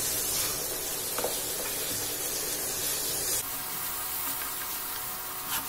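Spiced boiled black chickpeas sizzling in oil in a nonstick kadhai as a wooden spatula stirs and scrapes them, with a few light clicks of the spatula. They are being fried until dry. The sizzle drops a little about three and a half seconds in.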